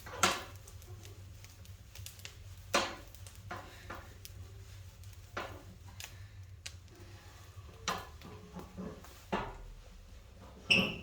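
A series of separate knocks and light metallic clatters at irregular intervals, as objects such as a lid are handled, with the loudest clatter near the end.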